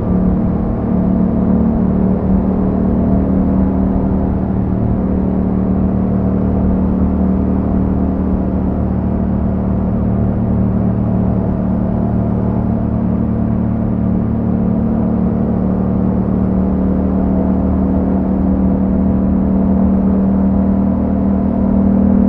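Yamaha MT-07 parallel-twin engine running through an Akrapovic exhaust while riding at a steady engine speed, with a brief drop in level about a second in.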